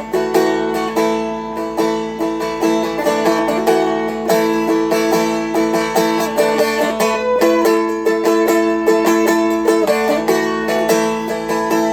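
Seagull Merlin M4, a four-string dulcimer-style instrument, being flatpicked in D. A steady run of picked melody notes, about three or four a second, rings over an unchanging open drone string.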